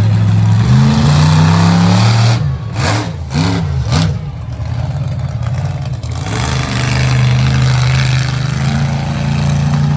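Monster truck engine revving hard: it climbs and holds at high revs, then goes through a string of quick throttle blips with a few sharp knocks, then settles and climbs back to a sustained high rev.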